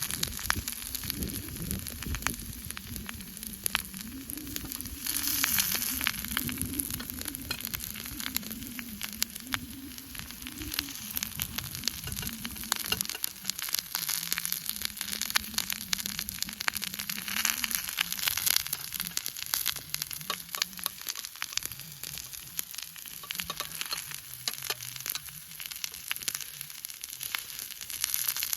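Hamburger steak and napa cabbage frying in a pan over a campfire: a steady, dense sizzle full of fine crackles and spatters.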